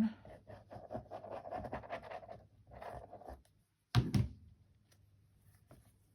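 A squeeze bottle of craft glue being squeezed, with scratchy, sputtering noise and small clicks for about three seconds. Then a loud thump about four seconds in, as of something set down on the table.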